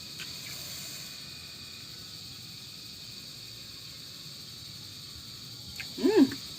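Steady high-pitched drone of insects. About six seconds in comes a brief pitched call that rises and falls.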